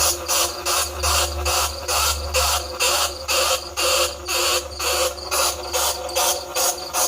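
Recorded bandicoot rat calls played as a lure: short, squeaky chirps repeated evenly about three times a second, over a low steady hum.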